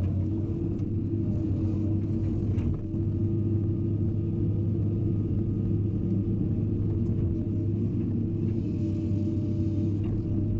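Hydraulic excavator's diesel engine running at a steady speed with a constant low hum, with a few faint clicks over it.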